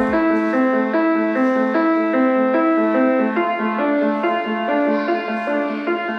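Background music: a piano-like keyboard playing a melody of held notes that change about twice a second.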